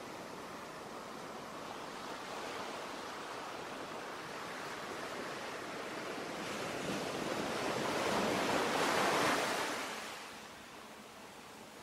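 Ocean surf: a steady wash of waves that swells to a peak about nine seconds in, then recedes.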